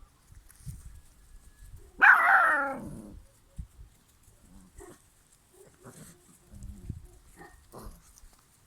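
Cane Corso puppy gives one loud bark-like yelp about two seconds in, about a second long and falling in pitch, followed by a few short, quieter sounds from the playing puppies.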